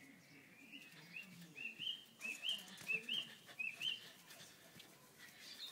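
A bird calling: about ten short, high chirps, each rising then holding, about three a second, stopping about four seconds in.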